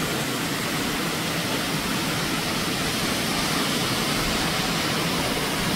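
Steady rush of Cheonjeyeon's third waterfall, where the most water comes down.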